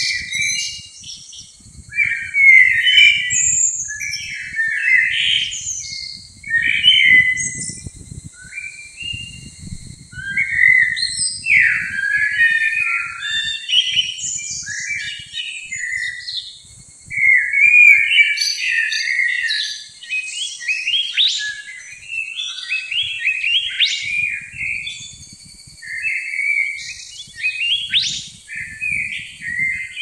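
Songbird singing: quick, varied phrases of high, whistled and twittering notes, each a second or two long, with short pauses between them.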